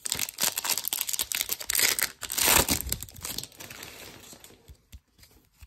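Plastic wrapper of a baseball card pack being torn open and crinkled, a dense crackle that is loudest about two and a half seconds in, then dies down to scattered light ticks and rustles.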